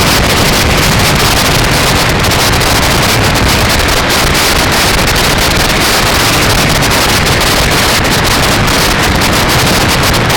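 Loud, steady wind rushing over the microphone while riding a bike, an even roar with no breaks.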